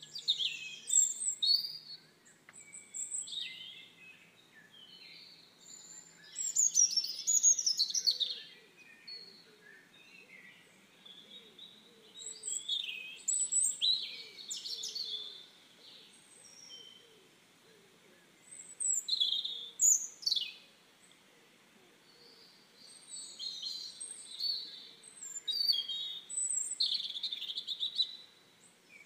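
Several wild birds singing and calling: bouts of high chirps, trills and whistles every few seconds, with short quieter gaps between them.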